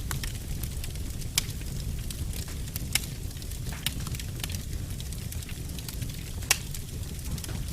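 A fire burning in a fireplace: a steady low rumble with scattered sharp crackles and pops, the loudest pop about six and a half seconds in.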